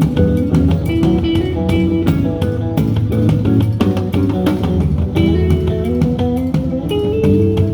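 A band playing: guitar and bass guitar notes over a steady beat of sharp strikes.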